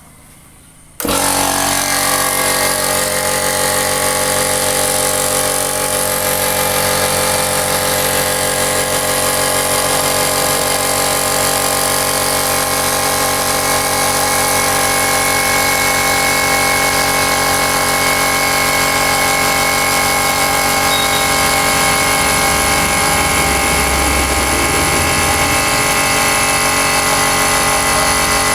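Rigo RT550 1500-watt electric air compressor switching on about a second in and then running steadily, pumping up its nearly empty tank toward its automatic cut-out pressure.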